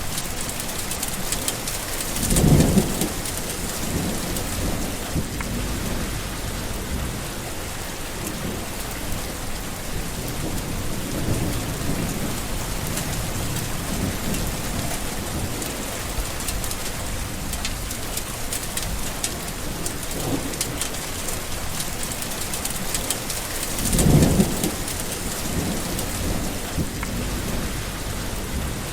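Steady rain with two loud rolls of thunder, one about two seconds in and another near the end.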